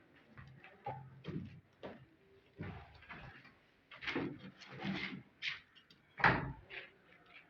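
Irregular knocks and scraping noises, like things being handled or moved, with a sharper, louder knock about six seconds in.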